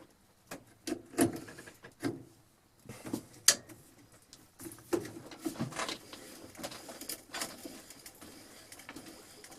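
Vintage hand drill turning a resharpened auger bit against wood, with irregular clicks, scrapes and squeaks. The bit barely cuts: its screw tip is not pulling it into the wood.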